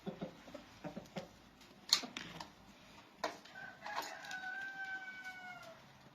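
Chickens clucking in a quick series, then a sharp short sound about two seconds in. Near the middle a rooster crows once, a single long call that drops slightly in pitch at the end.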